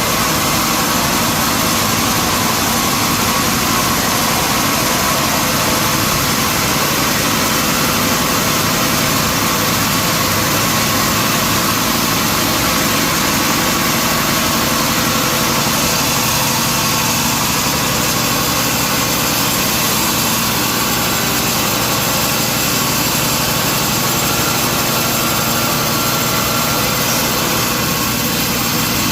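Sawmill machinery running steadily, an engine-like drone under a bright hiss.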